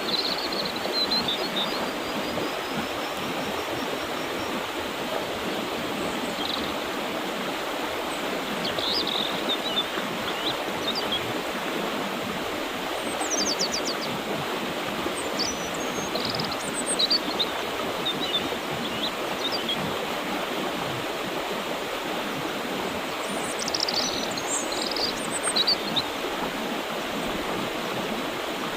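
Mountain river water rushing steadily over rocks, with small birds chirping now and then in short high bursts, most busily in the middle and near the end.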